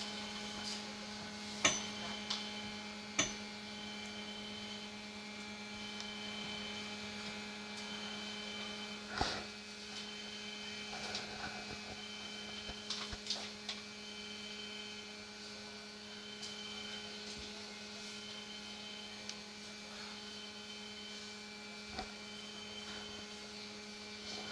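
Steady electrical hum from a Madrid Metro 5000-series train, with a short high beep repeating about every two seconds and a few scattered clicks.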